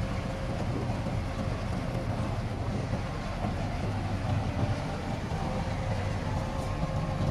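Heavy diesel earthmoving machinery running steadily, a deep low rumble with a faint steady whine above it.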